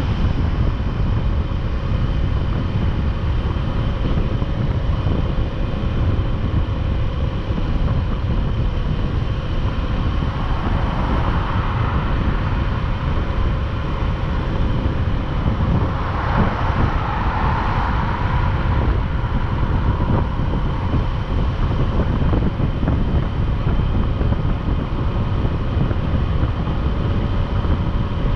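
Motorcycle engine running at a steady cruise under heavy wind rush on the microphone, with two brief swells of noise about eleven and seventeen seconds in.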